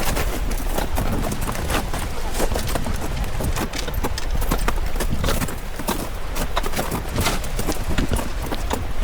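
Footsteps crunching and clicking on glacier ice, a group walking in an irregular run of sharp steps over a steady low rumble.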